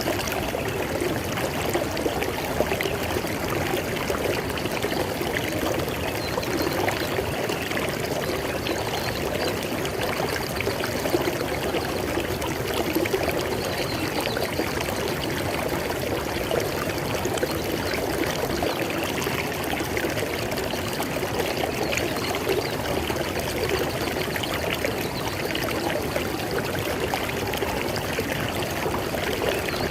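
River water flowing over rocks: a steady, unbroken rush with splashing and gurgling.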